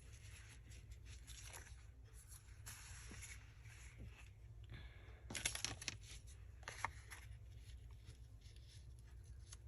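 Paper and fabric craft pieces being handled on a table: soft rustles and small clicks, busiest about five to seven seconds in.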